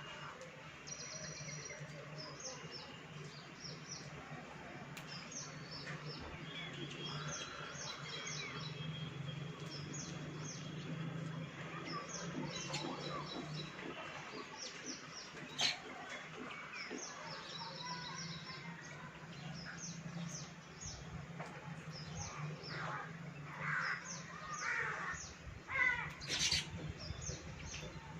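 Baya weavers chattering: many short, high chirps in quick clusters, over a steady low hum, with a few louder sharp sounds near the end.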